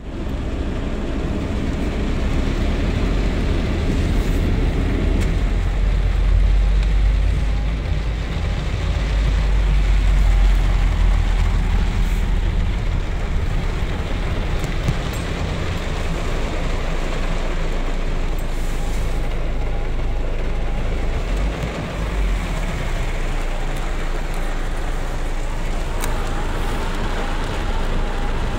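Heavy storm rain falling on a car's roof and windscreen, heard from inside the cabin, over a steady low rumble from the car.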